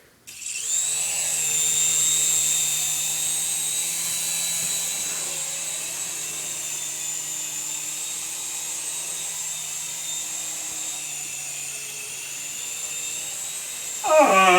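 Small electric RC toy helicopter's motors and rotors starting suddenly, then whining steadily at a high pitch in flight. Near the end a brief, louder voice cuts in over the whine.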